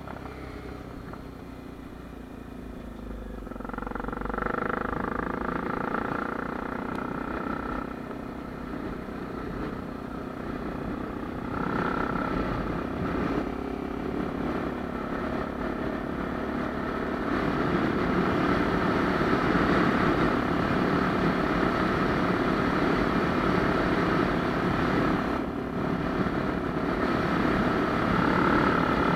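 Honda Tornado 250's single-cylinder four-stroke engine running, its note rising and falling and getting louder in steps, loudest over the last third.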